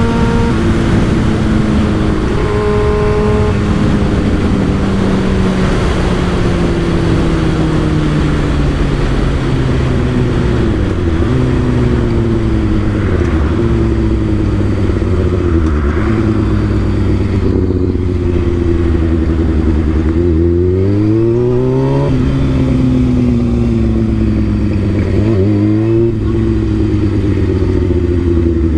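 Motorcycle engine running through an M4 aftermarket exhaust under way. The pitch sags slowly for long stretches, then climbs steeply twice as the bike accelerates, about two-thirds of the way in and again a few seconds later, over steady wind rush.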